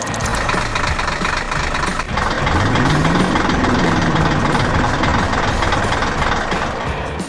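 Cartoon truck engine sound effect running, with a rise and fall in pitch like a rev about halfway through, over a steady hiss.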